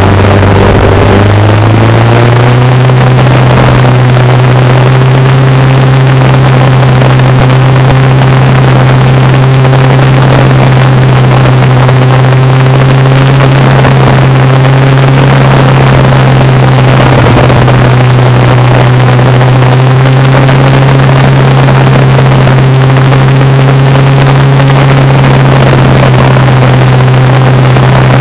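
Motorcycle engine picking up revs over the first couple of seconds, then held at a steady pitch on a constant throttle, with loud wind rush over the bike-mounted microphone.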